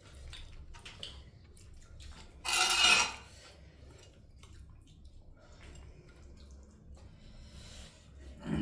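Light clinks and knocks of dishes and utensils over a low steady hum, with a short burst of rushing noise about two and a half seconds in.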